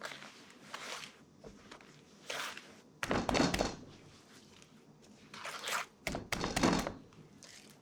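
Baking prep handling sounds on a work surface: two dull thunks about three and six seconds in, with shorter rustling, hiss-like handling noises between them.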